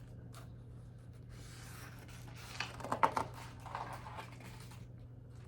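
Paper rustling and rubbing, like a page of a book being turned, loudest about three seconds in, over a steady low hum.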